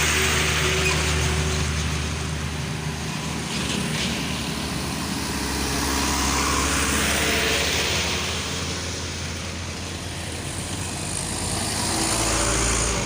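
Heavy truck engine running under load on a steep climb, a steady low drone mixed with road noise. It eases a little past the middle and swells again near the end.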